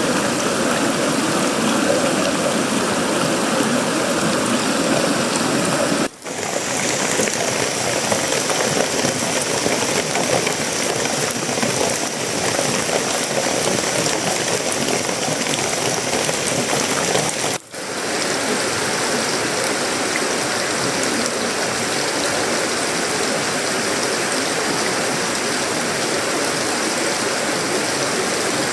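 Steady heavy tropical rain falling on a sheet-metal roof, wood and leaves, a dense even hiss. Twice, about six and seventeen seconds in, the sound drops out for a split second and then resumes.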